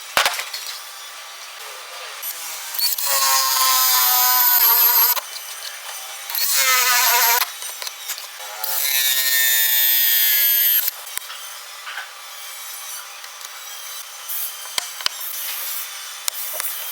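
A power tool working pine wood in three bursts of a couple of seconds each, with a whine that wavers in pitch. Between the bursts come quieter scraping and small clicks of handling.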